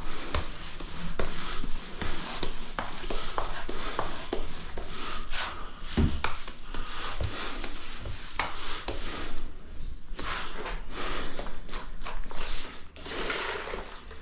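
Damp sponge rubbing and wiping grout off tiles: an uneven scrubbing sound with scattered light knocks.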